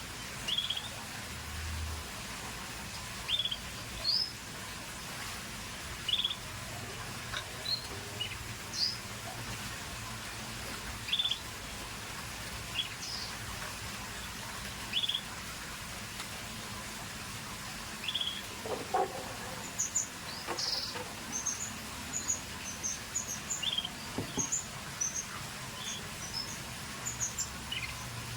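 Canaries calling: single short chirps every second or two, then, about two-thirds of the way in, a quicker run of higher twittering notes.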